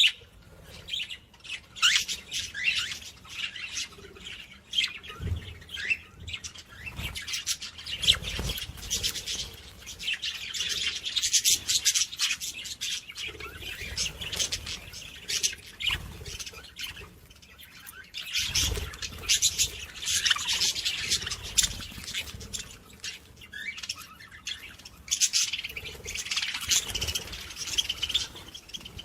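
A dense chorus of small songbirds chirping and twittering continuously, many quick overlapping high calls, with a few low thumps now and then.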